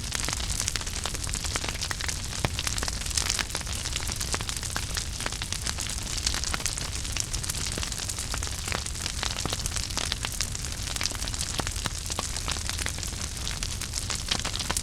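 Fireplace fire burning with dense, irregular crackling and small pops over a steady hiss and a low rumble.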